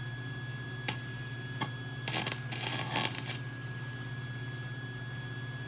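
Steady hum from a wire-feed welder, with two short clicks and then about a second of crackling arc from two to three seconds in: short weld bursts filling a burn-through hole in thin frame tubing.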